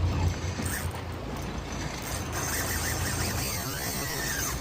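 Fishing reel ratcheting steadily while a hooked striped bass is fought on a jig.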